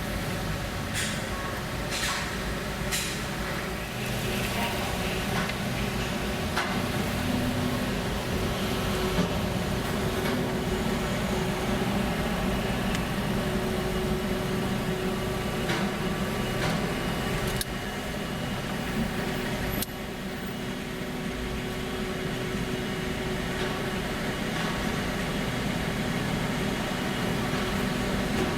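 Vehicle engines running on a car ferry's vehicle deck: a steady low rumble with a few sharp knocks in the first few seconds.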